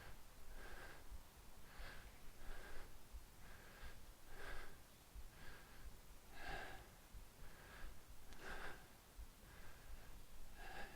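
A person breathing hard with exertion while exercising, faint short breaths in and out about once a second, a few of them stronger.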